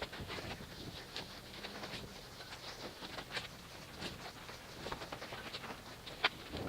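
Faint scattered ticks, light splashes and rustles of a car being hand washed with a soapy wash mitt.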